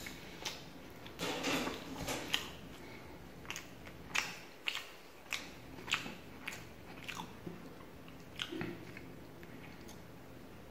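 Close-up chewing and lip smacks of someone eating paratha with rajma curry, in sharp irregular clicks about one or two a second that thin out after the first half.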